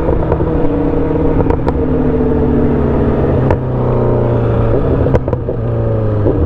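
Sport motorcycle engine running under way at a fairly steady speed, its pitch sagging slowly and shifting about three and a half seconds in, with road and wind rumble underneath.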